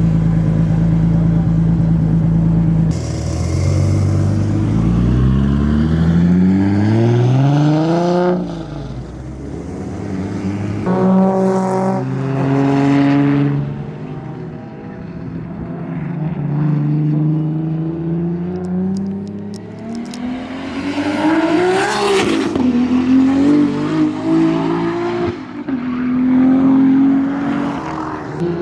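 Toyota Supra's exhaust note, steady at first, then accelerating hard through several gears. Each climb in pitch is broken by a sudden drop at the shift, and one pull near two-thirds through climbs highest before falling away.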